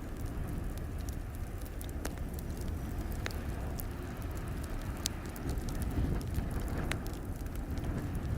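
Wood fire crackling in a fireplace, with a sharp pop every second or two over a steady low rumble.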